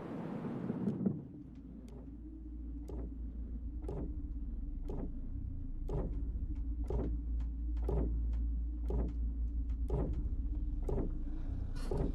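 Film soundtrack: a rushing noise fades out in the first second, giving way to a steady deep drone with sharp knocks at an even pace of about one a second.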